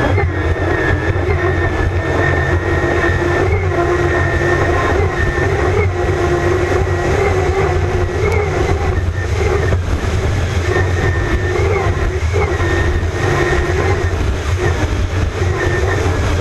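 Twin gas-turbine engines of a high-speed powerboat running steadily: a heavy low rumble with a slightly wavering whine above it.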